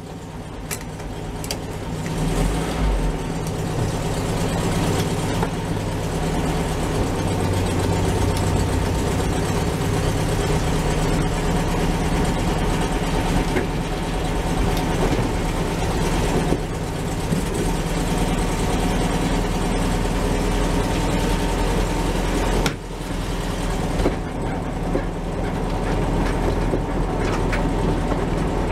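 Air-cooled Volkswagen Beetle engine running as the car drives along, growing louder over the first few seconds as it pulls away. The engine note dips briefly about 23 seconds in.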